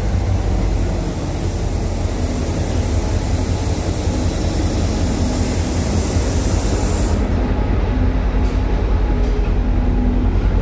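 Sri Lanka Railways Class M7 diesel locomotive running with a deep steady rumble while shunting oil tank wagons. A high hiss over it stops suddenly about seven seconds in.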